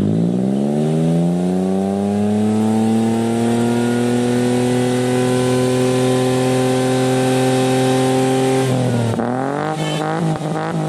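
Toyota Agya engine revving through a Remus branched aftermarket exhaust: it climbs in pitch, is held at high revs for several seconds, drops sharply, then gives a run of quick throttle blips.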